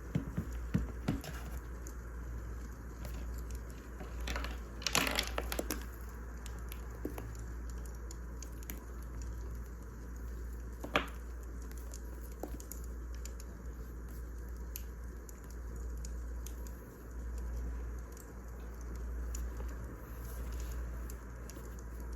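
Wood fire crackling: irregular small pops and snaps over a steady low rumble, with a burst of crackles about five seconds in and one sharp pop about eleven seconds in.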